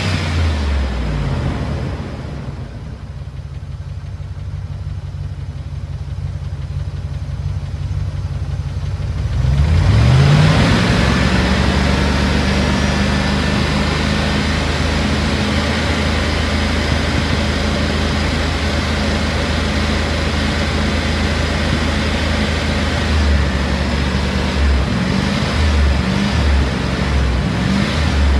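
Range Rover P38 engine revving and idling: it drops back to idle in the first couple of seconds, is raised to a steady higher speed about ten seconds in, and falls and rises unevenly near the end. The engine has a sticking valve or lifter, being treated with Rislone in the oil.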